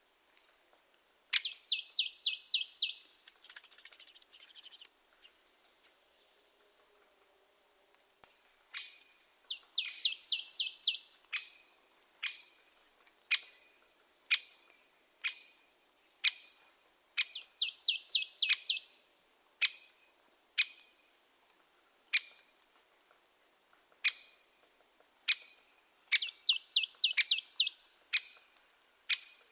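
Garden bird calls: sharp single call notes every second or two, with four bursts of rapid chattering notes, each about a second and a half long.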